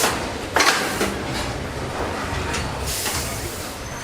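Factory floor noise: a low rumble with scattered clatter, a sharp knock about half a second in and a brief hiss about three seconds in.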